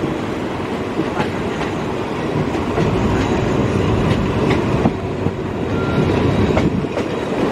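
Passenger train carriage running along the track, heard through an open window: a steady rumble of wheels and rushing air with irregular sharp clicks and knocks from the wheels on the rails.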